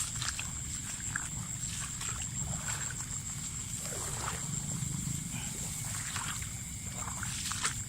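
A steady, high-pitched insect drone over low water sloshing and scattered short clicks and splashes, as someone moves through shallow water checking fishing lines.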